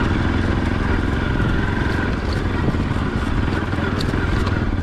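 Motorcycle engine running steadily under way, heard from the bike being ridden, with a few light clicks.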